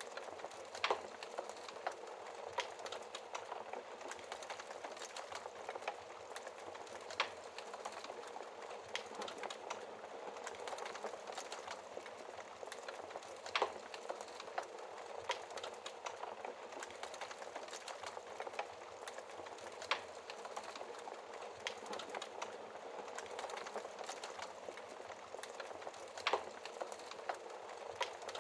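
Wood fire crackling in a fireplace: a soft steady hiss with frequent small irregular pops and snaps, a few louder ones every several seconds.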